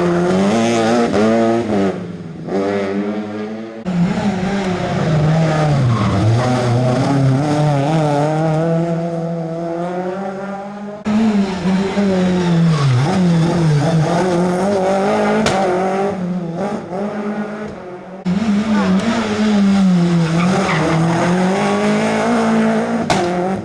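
Rally cars at full race pace, one after another: the engine note climbs hard, then drops back at each gear change and throttle lift. The sound switches abruptly to a new car about 4, 11 and 18 seconds in.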